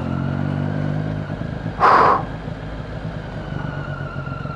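Triumph Street Triple's three-cylinder engine running at low revs, its steady note fading away a little over a second in. About two seconds in comes one short, loud, noisy burst.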